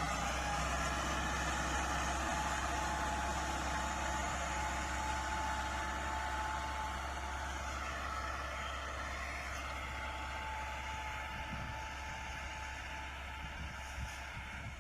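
Bull Power 577 tractor's engine running steadily while pulling a 14-disc harrow, slowly growing fainter.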